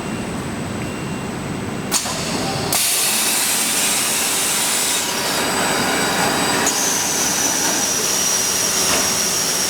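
Factory machinery running: a steady, noisy mechanical sound with a faint high whine, a sharp click about two seconds in, and abrupt shifts to a louder sound a little later.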